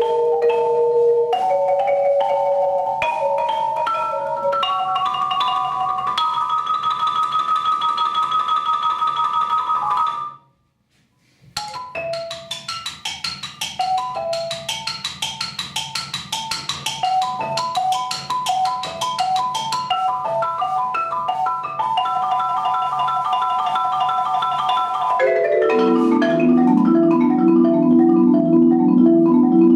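Solo marimba playing fast repeated-note rolls and runs, breaking off for about a second near ten seconds in, then resuming with rapid figures and moving down into the instrument's low register near the end.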